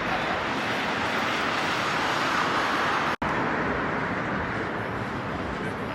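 Road traffic noise, a steady rush of passing vehicles that swells slightly and is cut by a brief silent gap about three seconds in.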